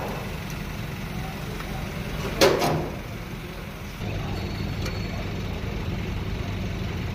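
Hand work on a car's fuel filter fitting: one sharp metallic knock with a short ring about two and a half seconds in, over a steady low hum that grows louder about four seconds in.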